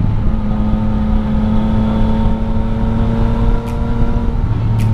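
Yamaha MT-09 Tracer 900's inline three-cylinder engine with an Akrapovic exhaust, heard onboard while riding. It runs at a steady cruise, its pitch easing slightly downward. Two faint short clicks come near the end.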